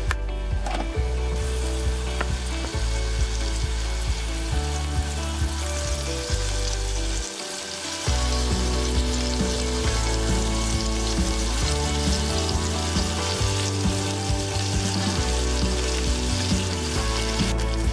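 Burger patties sizzling as they fry in hot oil in a pan, a steady hiss that grows louder about halfway through, over background music.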